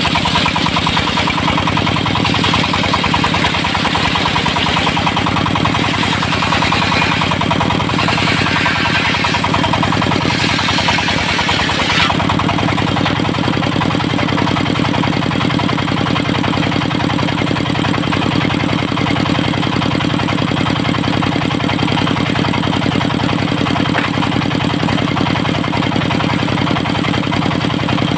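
Dongfeng diesel engine driving a circular sawmill, running steadily under load. For roughly the first twelve seconds the saw blade is cutting teak with a hissing rasp, which stops suddenly, leaving the engine and the spinning saw running on.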